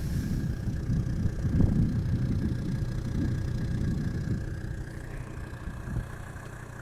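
Mercedes OM605 2.5-litre five-cylinder turbo diesel running steadily at idle, a little quieter in the last couple of seconds.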